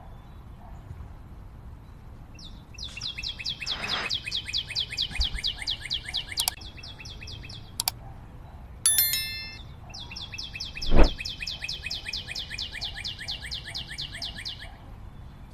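A bird singing a long, fast, even trill of high repeated notes, twice, each about five seconds. Between the trills come two sharp clicks and a short bell-like chime, and a loud thump follows about a second later.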